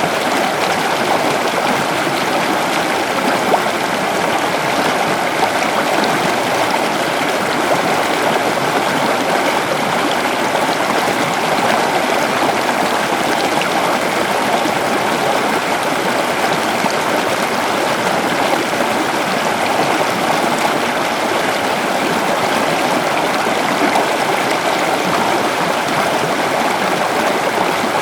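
River water flowing over stones: a steady, even rushing and gurgling.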